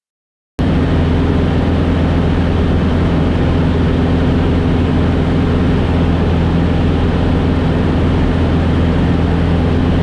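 Engine and propeller of a 1969 Cessna 150J, its 100 hp four-cylinder Continental O-200, droning steadily in cruise as heard inside the cabin. It cuts in suddenly about half a second in after silence.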